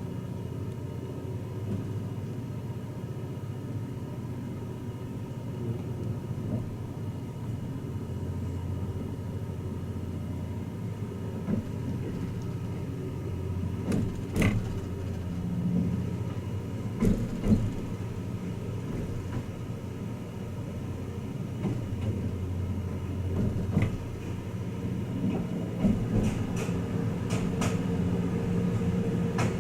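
Running noise inside a passenger car of the Twilight Express Mizukaze, a diesel-electric hybrid train: a steady low rumble with a faint steady whine, broken by a few sharp clicks and knocks, and getting slightly louder near the end.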